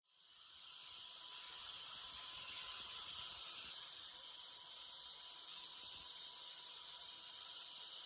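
A steady high hiss of a spray, starting abruptly and holding even throughout.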